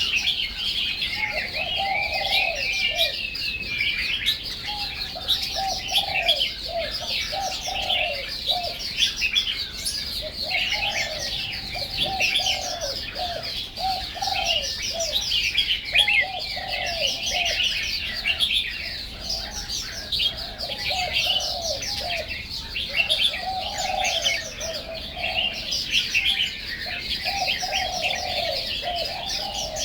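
Birds singing: a dense, unbroken chatter of short high chirps over repeated lower cooing phrases, each about a second or two long with short gaps between.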